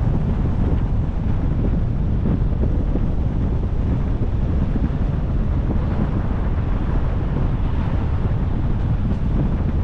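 Steady wind rush on the microphone of a car-mounted camera while driving, a constant low rumble mixed with vehicle and road noise.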